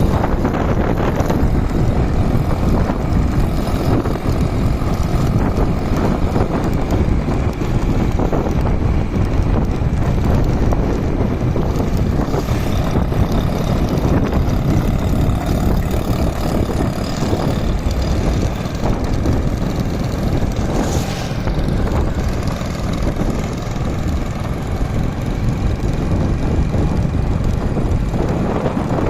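Motorcycle running steadily on the road, its engine noise blended with a steady rush of wind.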